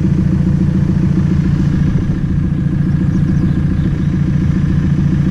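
A farm machine's engine idling steadily at an even, unchanging speed.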